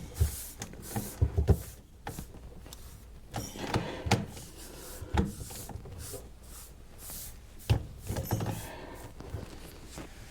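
Irregular knocks, clicks and scraping of drain pipe parts being handled and fitted under a kitchen sink.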